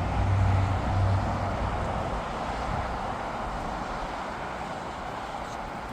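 Steady rushing engine noise of passing traffic or aircraft, with a low rumble that is strongest at the start and then eases off slightly.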